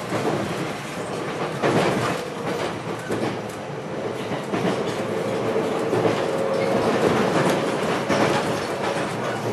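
JR West 521 series electric train running: rail-joint clicks and wheel noise over a faint VVVF inverter whine that edges up in pitch about halfway through as the train gathers speed. Heard from inside the car.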